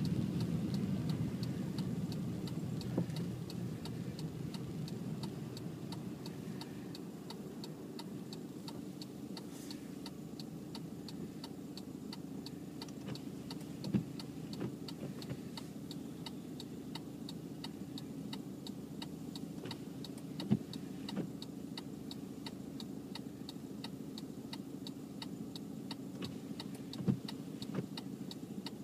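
A vehicle engine running steadily, with a regular fast ticking over it and a few single soft knocks, about halfway in and near the end.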